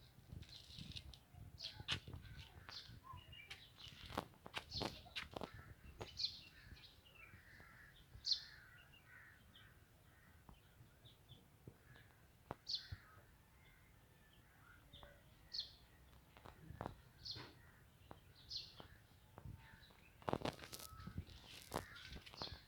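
Birds calling outdoors: short, high calls every second or two, faint, with scattered sharp clicks and knocks.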